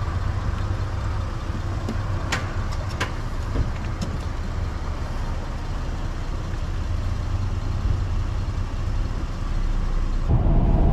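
Vehicle engine idling, a steady low rumble, with a few sharp clicks between two and four seconds in. Near the end the sound shifts abruptly to a louder rumble.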